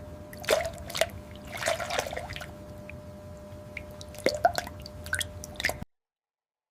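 Petrol dripping in small, irregular drops over a faint steady hum. The sound cuts off abruptly near the end.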